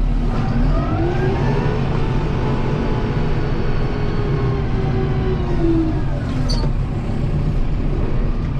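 Kubota M7060 tractor's four-cylinder diesel engine running steadily while it works a snow pusher. The engine pitch rises about a second in, holds, and drops back near six seconds.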